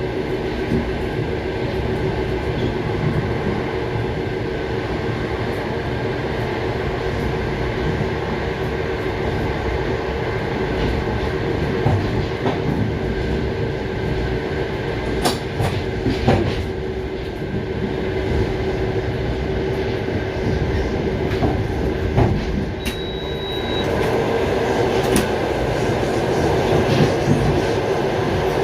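Running noise of a moving passenger train heard from inside the carriage: a steady rumble and hum of the wheels on the rails, with scattered sharp clicks and knocks from the rail joints. It grows somewhat louder about 24 seconds in.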